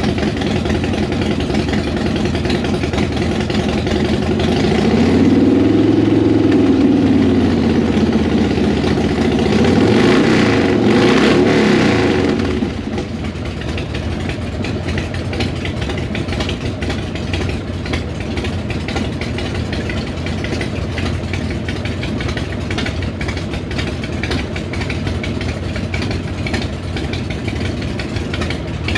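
Several motorcycle engines running at once, with a loud Harley-Davidson Road King V-twin among them. The engine is revved twice, each rev rising and falling over about three seconds, then everything settles back to a steady idle.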